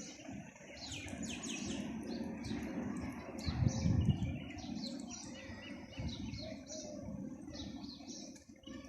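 Small birds chirping in quick, repeated calls, over a low rumble that swells briefly about four seconds in.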